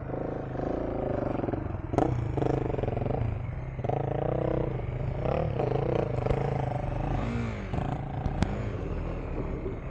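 KTM 390 Enduro R's single-cylinder engine running as the bike is ridden on a dirt track, the revs rising and falling, with a couple of sharp knocks about two seconds in and near the end.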